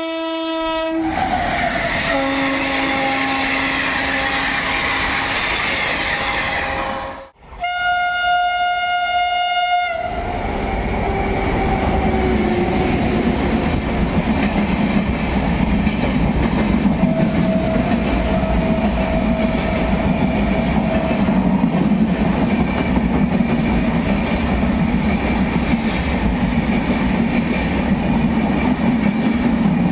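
Indian express train locomotive horns blowing, one clean blast cut short about ten seconds in, followed by a train rushing past at speed with continuous wheel and rail noise and a falling horn note as it goes by. A further horn note sounds partway through the passing.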